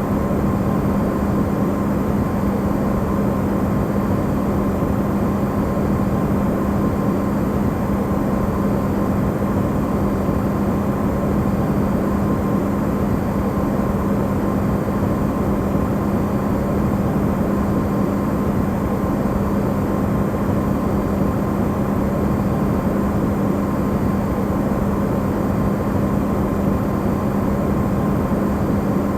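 Electrolux refrigerator running, recorded amplified: a steady low hum over an even rushing noise, with a fainter higher tone, unchanging throughout.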